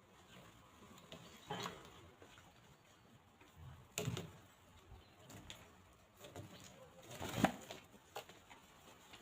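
Free-range chickens foraging: a handful of sudden short pecks and scuffles, the loudest about seven seconds in, with soft low clucking.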